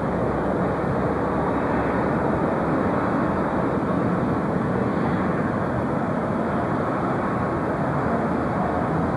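Jet airliner engines running, a steady even noise with no clear rise or fall.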